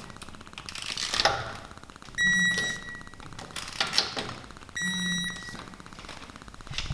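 An electronic beep repeating about every two and a half seconds, over a fast, even ticking, with a few knocks between the beeps.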